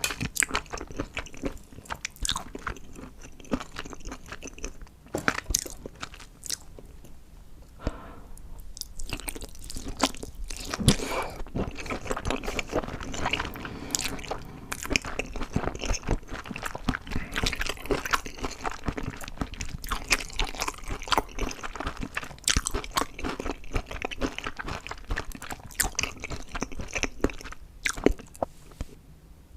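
Close-up crunching and chewing of food: a dense run of sharp crackles and bites, thinning briefly early on and growing busier after about nine seconds.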